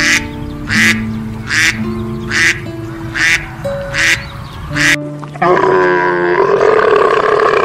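A domestic duck quacking seven times, about one quack a second, over background music with steady held notes. About five and a half seconds in, the quacks give way to a camel's long, wavering call lasting about two seconds.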